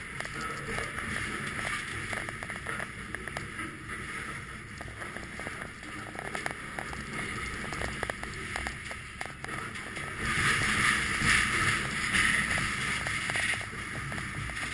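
Freight train rolling over a steel truss bridge, heard from the end platform of a covered hopper car: a steady rumble of wheels on rail with frequent rattling clanks and wind on the microphone. It grows louder for a few seconds about ten seconds in.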